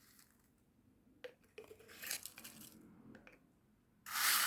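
Perlite granules being poured and spooned into a small plastic bottle over orchid stones: light clicks and gritty rustling, with a louder rustle near the end.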